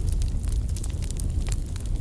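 Wood fire crackling, with a steady low rumble of burning under many small sharp pops and snaps.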